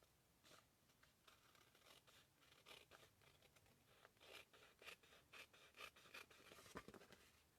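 Small paper snips trimming cardstock: a run of faint, quick snips and paper rustles, loudest near the end.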